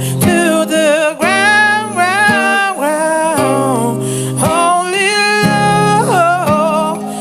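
Solo singing with strong vibrato over an acoustic guitar accompaniment, a song phrase held in long notes.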